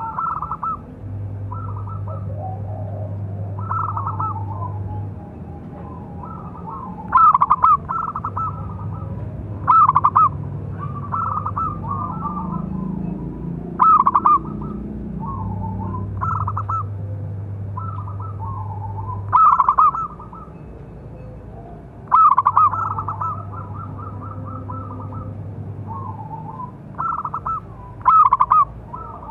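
Zebra doves (perkutut) cooing: a steady run of short, rolling coo phrases, with about six louder, sharper phrases spaced every few seconds. A low steady hum comes and goes underneath.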